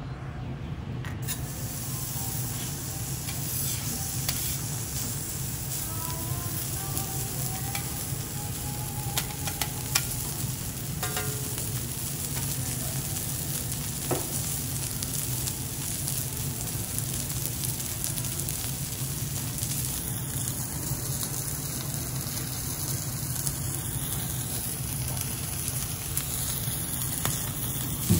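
Diced meat and garlic chips sizzling steadily on a steel teppanyaki griddle, with a few sharp metal clicks from the cook's spatula and fork.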